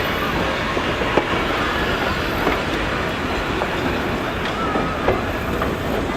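South Shore 803 electric locomotive and its caboose train rolling slowly over the rails: a steady rumble with scattered wheel clicks over rail joints and faint brief wheel squeals.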